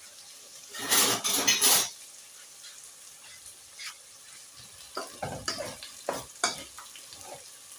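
A spoon working cooked rice in a metal pot: a loud scraping clatter about a second in that lasts about a second, then a run of short scrapes and knocks of the spoon against the pot near the end.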